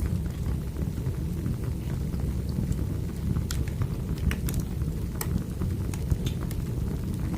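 Wood fire burning: a steady low rumble with sharp crackles and pops scattered through it, several close together in the middle.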